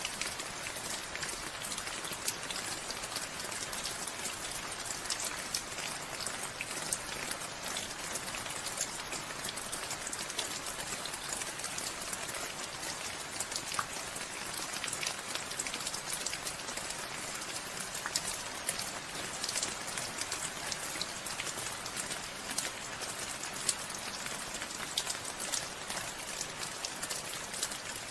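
Steady rain falling, a dense hiss with many individual drops ticking sharply on a surface.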